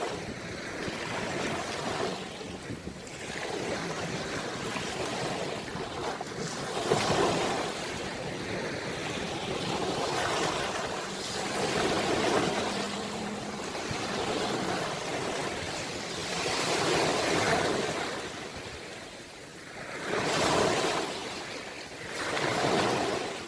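Ocean waves breaking and washing on the shore, swelling and falling away every few seconds, with some wind on the microphone.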